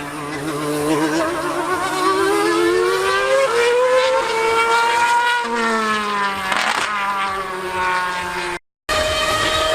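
High-revving racing engine running hard, its pitch climbing and falling as it revs and changes gear, with a second, lower engine note joining in about halfway. The sound cuts out for a moment near the end and comes straight back.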